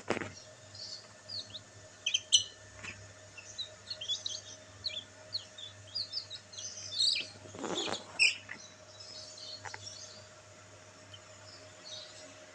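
Black bantam chicks peeping: many short, high chirps overlapping at an uneven pace, thinning out near the end. Two brief louder noises cut in, at the very start and around eight seconds in.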